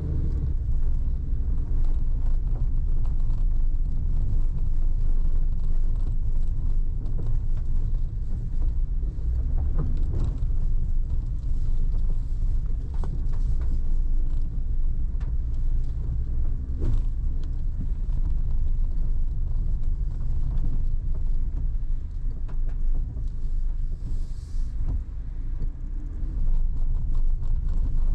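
Car driving: a steady low rumble of engine and tyres, with a few faint knocks.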